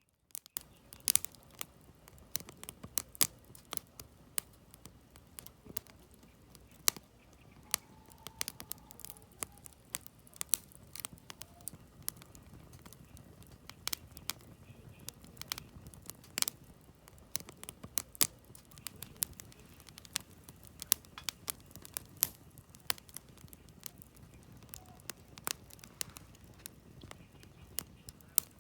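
Firewood burning in a campfire: irregular sharp crackles and pops over a low, steady rush of flame.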